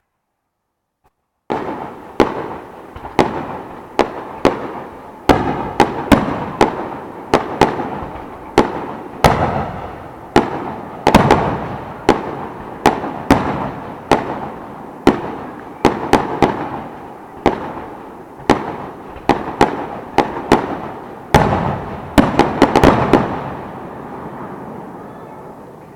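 Fireworks finale: aerial shells bursting one after another, about one to two loud bangs a second, each trailing off. The bangs begin about a second and a half in, crowd together in a rapid cluster near the end, then die away.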